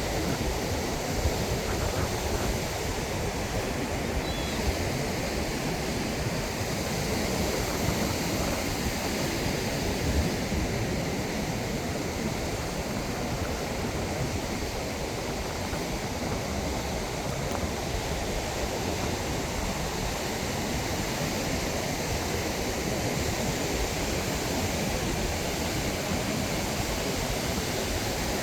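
Steady wash of ocean surf, with strong wind rumbling on the microphone.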